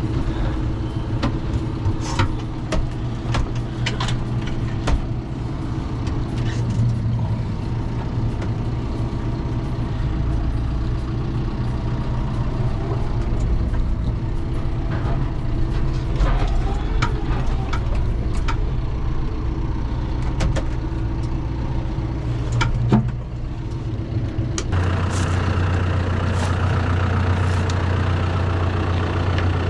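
A John Deere 5100E tractor's four-cylinder diesel engine running while it is driven off a trailer, with scattered clanks and knocks. About 25 seconds in, the engine note changes abruptly to a steadier, deeper drone.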